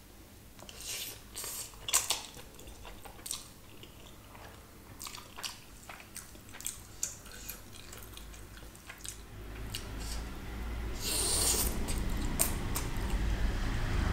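Close-up eating sounds of black bean noodles: chewing with scattered wet mouth clicks, growing louder and denser from about ten seconds in.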